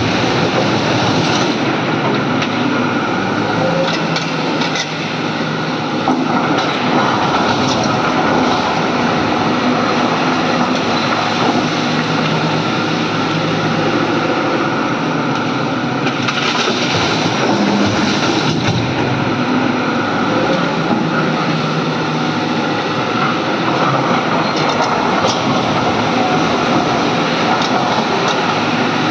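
Hydraulic excavator's diesel engine working under load, its pitch rising and falling as the machine digs and swings, with occasional knocks and clatter.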